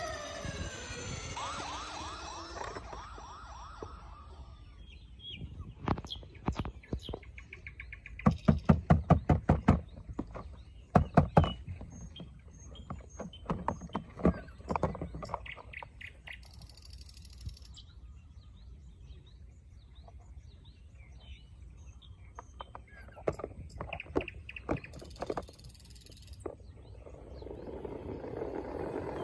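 A falling siren-like wail fades out over the first few seconds. Then come several bursts of rapid, sharp clicks and knocks, the loudest a quick run about eight to ten seconds in.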